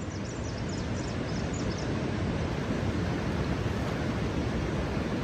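Steady rushing outdoor nature ambience, fading in, with a few faint high chirps in the first second or two.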